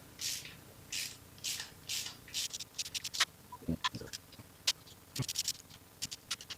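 T40 Torx bit being turned to back out the LS engine's camshaft retainer bolts: a run of even rasping tool strokes about two a second, then quicker sharp clicks and a few metallic clinks.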